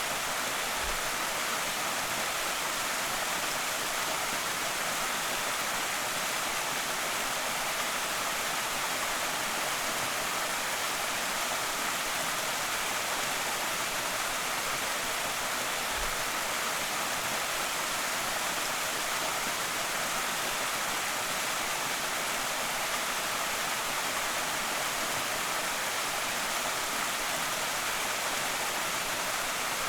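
Waterfall on Slateford Creek: a steady, unbroken rush of falling water.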